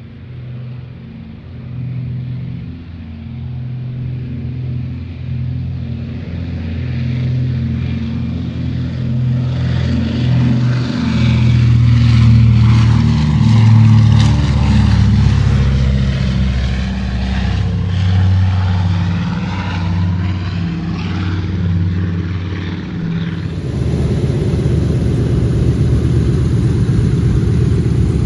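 PBY Catalina's twin Pratt & Whitney R-1830 radial engines at takeoff power, with a low drone that pulses about once a second and grows louder to a peak about halfway through. About 23 seconds in the sound cuts to a denser, heavier rumble of big radial-engine warbirds taxiing.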